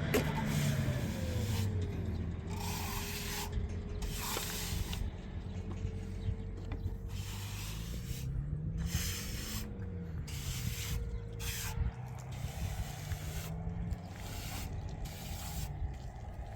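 A motor running steadily, its note dropping about half a second in and rising then falling again near the middle, with repeated short hissing, rushing strokes over it.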